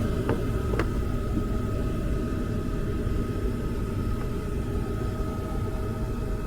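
Gas furnace running: a steady rumble with a faint steady whine over it, and two light clicks about half a second apart near the start.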